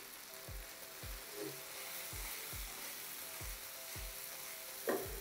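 Fried chicken pieces sizzling in black bean sauce in a frying pan, stirred and tossed with a wooden spatula. Background music with a soft steady beat about twice a second runs underneath, and there is one brief louder noise near the end.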